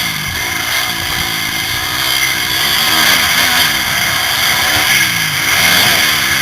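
Motocross bike engine revving hard, its pitch rising and falling over and over as the throttle is opened and closed.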